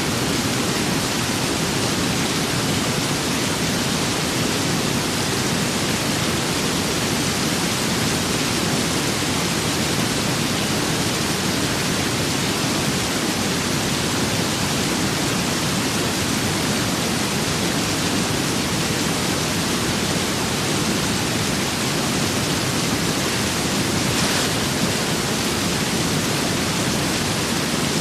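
Steady rain with wind: a dense, even hiss with no breaks or single drops standing out.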